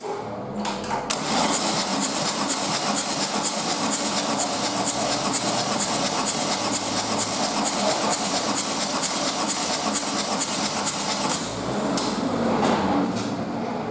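Opel Combo 1.3 CDTi (Z13DTJ) four-cylinder turbodiesel starting up about a second in and then running steadily, with a fast, even ticking over the engine noise.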